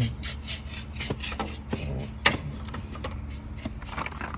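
A few scraping strokes, then scattered sharp clicks and knocks of hand tools at work, over a steady low hum.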